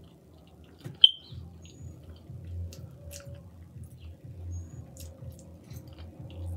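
Close-miked chewing of soft, cheesy chili fries, a steady rhythm of low, muffled chews. About a second in there is a single sharp click, the loudest sound.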